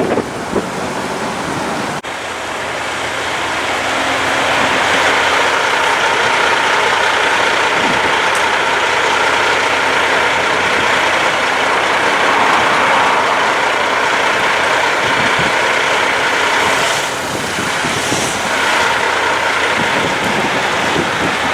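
Heavy diesel trucks running under load, the sound swelling over the first few seconds and then holding steady. Two short hisses come near the end.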